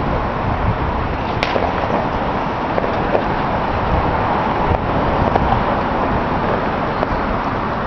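Distant fireworks display: a steady rumble of bursts blurring together, with one sharp crack about a second and a half in.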